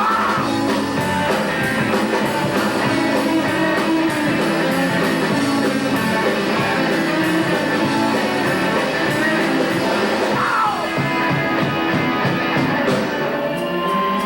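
Rock band playing live, guitar-led with drums, and a voice singing or calling out at times, near the start and again about ten seconds in.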